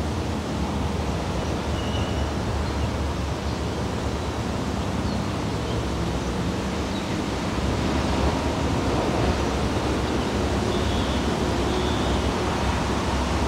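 Diesel train running steadily: a low engine drone under an even rushing noise.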